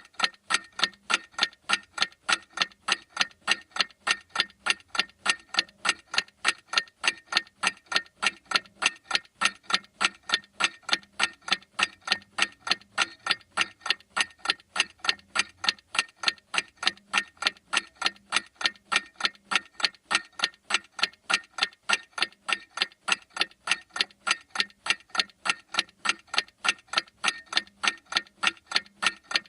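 Clock ticking steadily, sharp even ticks several times a second.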